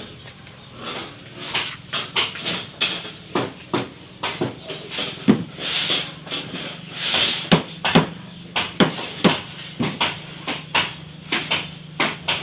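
Irregular hammer knocks on wooden beam formwork, with gusts of wind buffeting the microphone at a few points.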